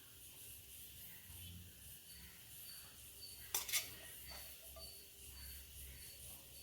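Two sharp clinks of tableware in quick succession about halfway through, over faint insects chirping in a regular rhythm of about two chirps a second.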